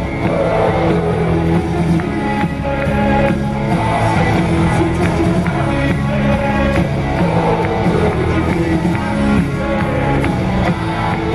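Live rock band playing, with singing over sustained chords and a steady rhythm.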